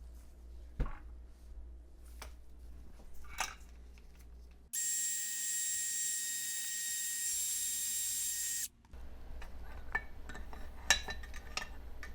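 Scattered knocks and clicks of metal parts being handled, then a power tool run once for about four seconds: a steady high hiss with a whine that starts and stops abruptly.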